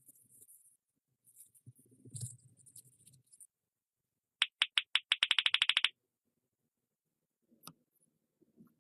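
Faint scraping, then a quick run of about fifteen sharp mechanical clicks over a second and a half, coming faster toward the end, like a ratchet or pawl being turned. A single click follows near the end.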